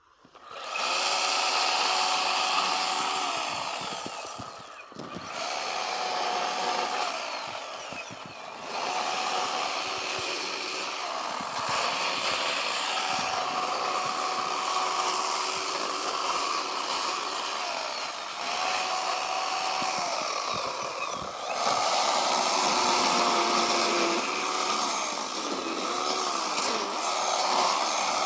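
Chainsaw starting up about half a second in and cutting into a block of packed snow. The engine speed rises and falls as the throttle is eased off and squeezed again, with short dips around four and eight seconds in.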